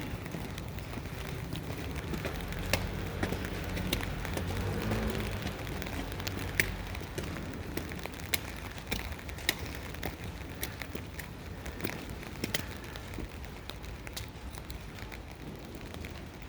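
Rain falling steadily, with sharp irregular ticks of drops striking close by. A low rumble swells and fades about three to six seconds in.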